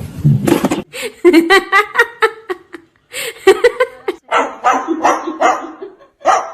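A dog barking repeatedly in short, quick barks, beginning about a second in, after a stretch of noise that cuts off suddenly.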